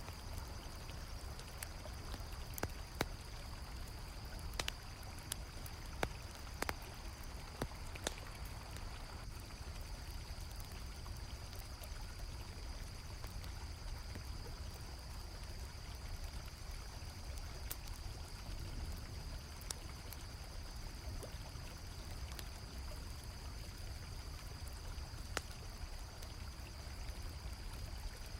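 River water flowing steadily with a low rumble, campfire crackling in scattered sharp pops, and a continuous high cricket chorus.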